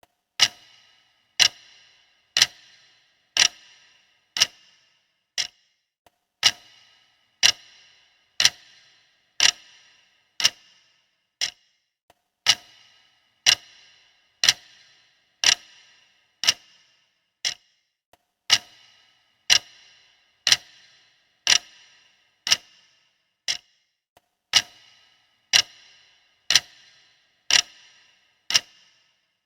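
Clock ticking about once a second, each tick a sharp click with a brief metallic ring. About every sixth tick is fainter.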